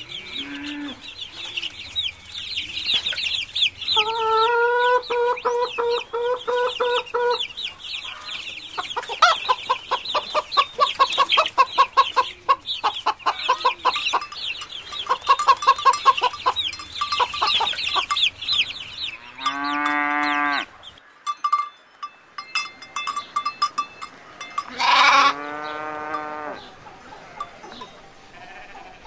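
Hens clucking in quick runs of short calls, with high chirping behind them. Near the end, sheep bleating in loud, long calls.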